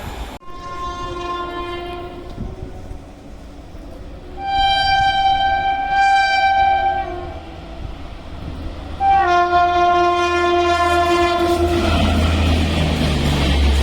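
Train horn sounding three long blasts, the first fainter and the last two loud, as an express train approaches a station at speed; the low rumble of the oncoming train builds from about nine seconds in.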